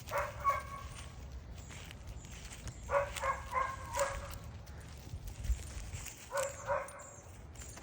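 Springer spaniel puppies barking: short, high yaps in three brief clusters a few seconds apart.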